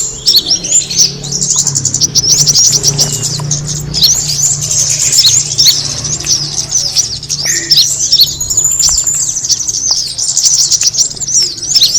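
A dense, unbroken chatter of quick high chirps and short pitch glides from kemade birds, over a steady low hum.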